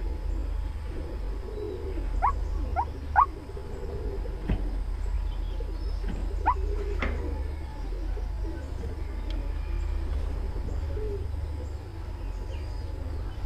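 White-breasted waterhen calling: a few short rising notes, three in quick succession about two seconds in and two more around six to seven seconds, over a steady low hum.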